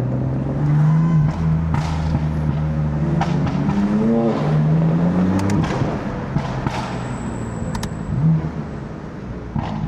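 BMW F80 M3's twin-turbo straight-six running at low speed. It revs up briefly about four seconds in and settles back, with a few sharp clicks along the way.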